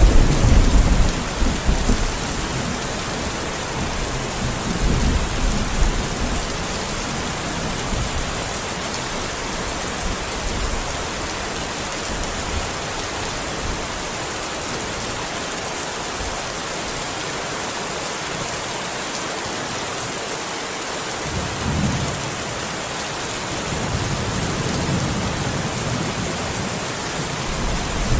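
Steady rain falling, with low rumbles of thunder: one at the start, another a few seconds in, and more near the end.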